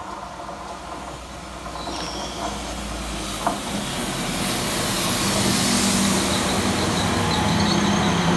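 Transport for Wales Class 197 diesel multiple unit pulling into the station, growing steadily louder as it approaches and runs alongside the platform, with wheel-on-rail noise and a steady low engine hum. There is one sharp click a few seconds in, and faint high squealing tones set in as it slows.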